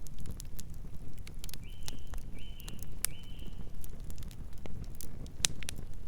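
Wood campfire crackling, with irregular sharp pops over a low steady rumble of burning. A little under two seconds in come three short high whistling notes in quick succession.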